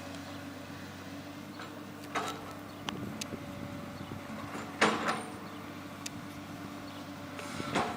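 Case excavator's diesel engine running steadily, with three short bursts of noise from the machine's work at about two, five and eight seconds in, the middle one the loudest.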